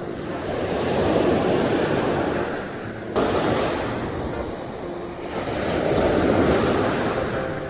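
Surf waves washing onto a sandy beach, the rush of water swelling and fading twice, with wind buffeting the microphone.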